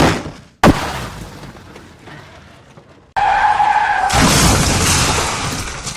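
Cartoon vehicle sound effects: two sharp crashes about half a second apart, each dying away. Then a brief tone, and from about four seconds in a loud, dense rushing noise like skidding or a vehicle running hard.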